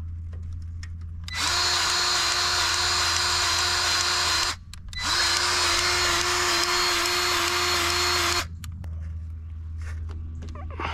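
Cordless grease gun's motor running in two steady runs of about three seconds each, with a short break between, pumping fresh grease into a stump grinder's grease fitting and pushing the old dirty grease out.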